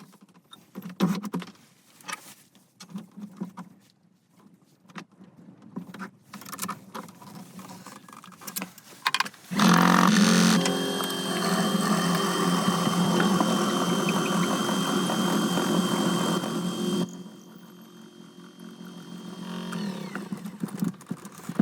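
An electric power-tool motor is switched on and runs steadily with a high whine for about seven seconds, then stops abruptly. Light handling clicks and knocks come before it.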